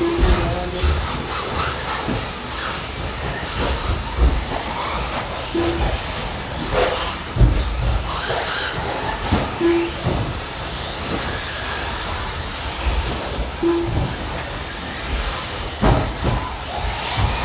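Electric brushless RC truggies and stadium trucks racing: a steady mix of motor whine and tyre noise with scattered knocks from landings and contacts. Short beeps sound about every four seconds.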